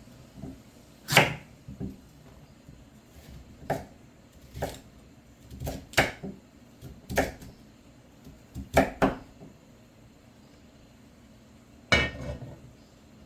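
Kitchen handling sounds: about ten irregular sharp knocks and clinks of cookware and utensils being set down and moved, with a longer clatter that rings briefly near the end.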